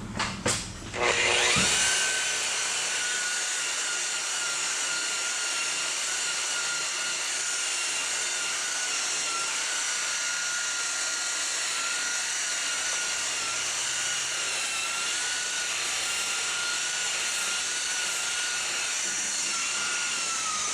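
Electric polishing machine starting up about a second in after a few clicks, then running steadily with a high, slightly wavering whine.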